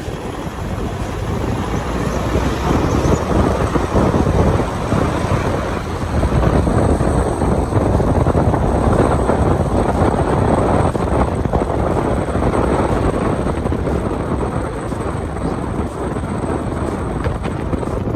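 Steady road, tyre and wind noise with a low rumble, heard inside a Toyota Prado 150 driving on the road. There is no squeal from the tyres, a sign of a front end that is settling in well after the rebuild.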